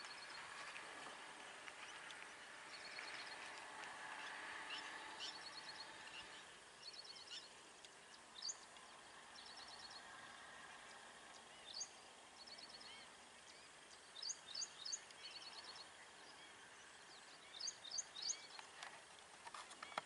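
Faint open-air ambience with small birds calling: short rattling series of high notes and sharp rising notes, often in twos and threes, coming more thickly near the end. A soft background hiss fades after the first few seconds.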